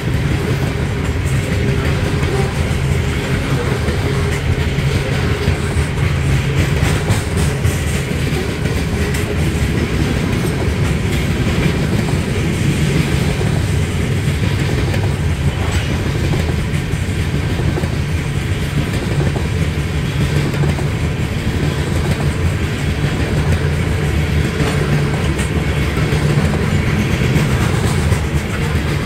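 Covered hopper cars of a freight grain train rolling past, with the steel wheels running on the rails in a steady, loud rumble.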